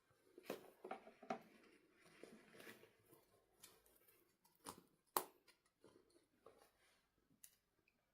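Faint handling noises: soft rustling with scattered sharp clicks and taps, the loudest click a little after five seconds in.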